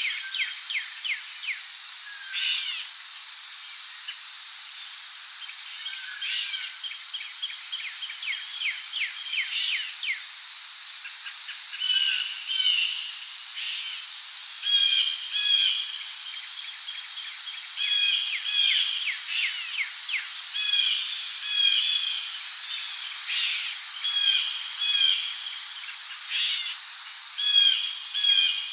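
Rainforest ambience: a steady high-pitched drone of insects such as crickets, with birds calling over it in short repeated chirps, many in pairs, more of them in the second half.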